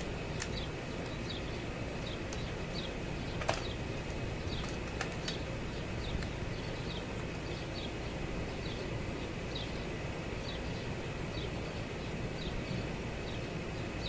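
Short high chirps repeating about twice a second, like a small bird calling, over a steady background hum. A few light clicks, the clearest about three and a half seconds in.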